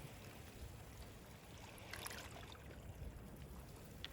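Faint, steady wash of water, with soft clicks about two seconds in and again near the end.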